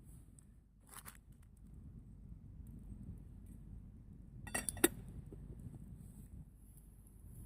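A quick cluster of light clinks, as of cookware or cutlery knocking together, about four and a half seconds in, with a soft rustle about a second in.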